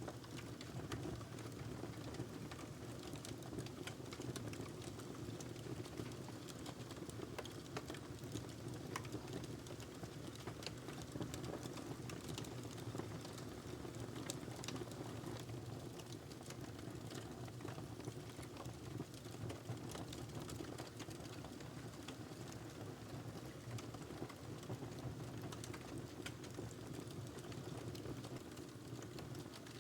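Wood fire burning in a fireplace: a steady low rush of flames with irregular small crackles and pops throughout.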